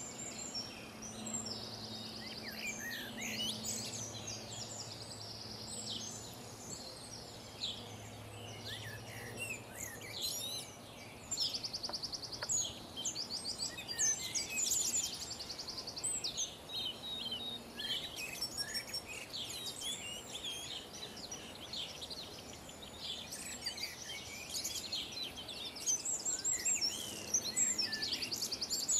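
Several songbirds singing and calling at once, a dense mix of chirps, short whistles and fast buzzy trills. A faint steady low hum sits under them for the first ten seconds or so.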